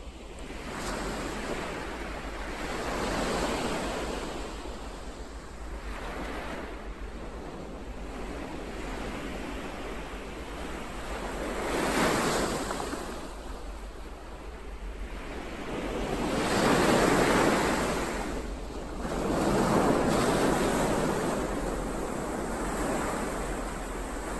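Ocean waves breaking and washing ashore in slow swells that rise and fade every few seconds, the loudest coming about halfway through and again in the last third, over a steady low rumble.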